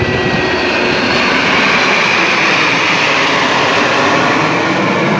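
Jet aircraft flying past, a loud steady roar that swells over the first two seconds and then holds.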